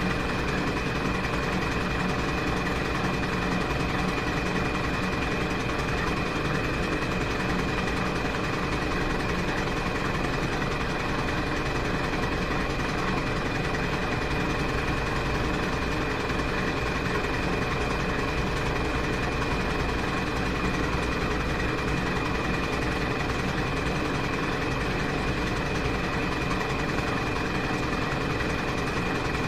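Washing machine running steadily through its cycle: an even motor hum with a thin, constant whine above it and no change in pace.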